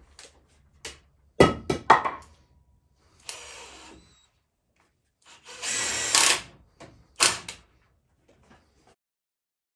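Woodworking: a few sharp knocks on wood and a power drill running in two short bursts, the second louder.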